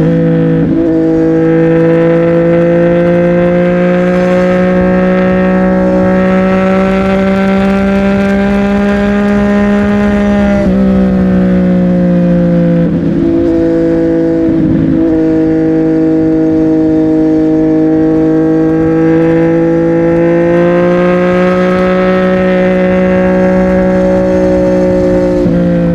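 CFMOTO 675NK's three-cylinder engine through an aftermarket titanium exhaust, ridden at a steady cruise. The pitch creeps up slowly, then drops sharply about ten seconds in and briefly twice more shortly after, as the throttle closes for gear changes, before it settles back into a steady note that dips once more near the end.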